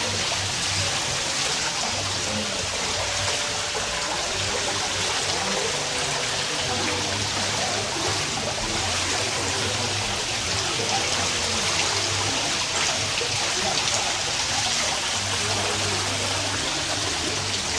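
A steady, even rushing noise that holds at one level throughout, with faint steady tones underneath.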